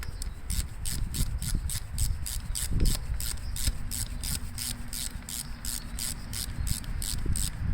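Socket ratchet clicking steadily, about four clicks a second, as bolts are snugged up into the tractor's transmission, with low handling and rubbing noise underneath.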